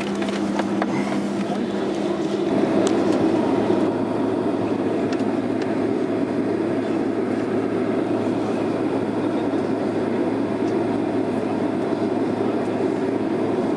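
Steady rumble and hum inside a Boeing 767 airliner's cabin. A steady tone stops about three and a half seconds in as a lower hum takes over, with a few faint clicks near the start.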